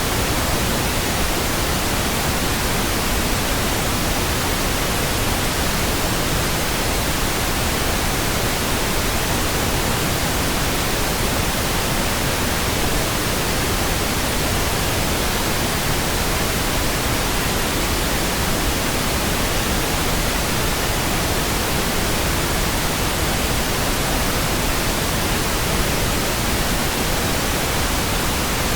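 Synthetic pink noise: a steady, even hiss spread across all pitches, with no changes or events.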